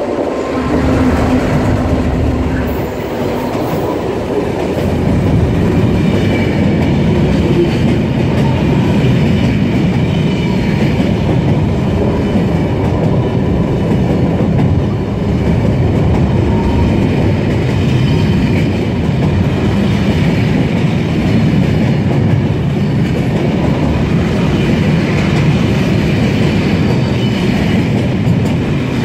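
A long freight train of open box wagons rolling past close by at speed: a loud steady rumble with the clickety-clack of wheels over rail joints.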